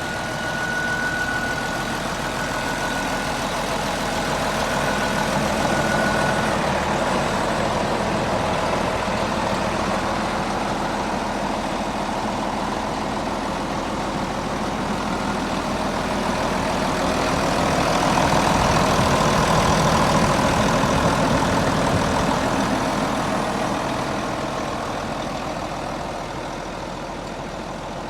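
Case David Brown 1370 tractor's diesel engine running steadily, rising in level around the middle and fading toward the end, with a thin high whine during the first few seconds.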